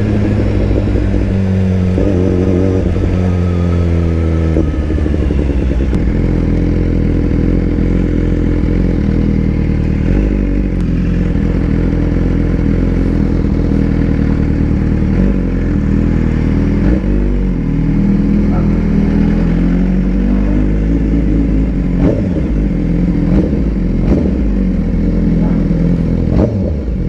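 BMW S1000RR's inline-four engine running, its revs rising and falling, with a few sharp clicks in the second half.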